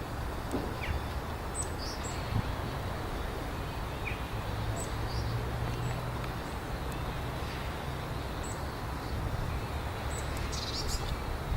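Small birds giving short, scattered chirps, with a quick cluster of calls near the end, over a steady low background rumble.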